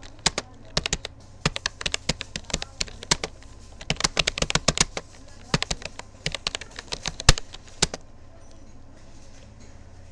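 Rapoo computer keyboard being typed on: quick runs of key clicks with short pauses between words. The typing stops about eight seconds in, leaving a faint low hum.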